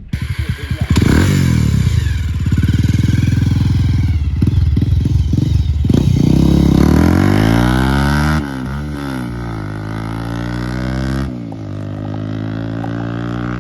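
A 220 cc motorcycle with an aftermarket Akrapovic exhaust, running loud. Its revs rise and fall, climbing about six seconds in, then dropping away.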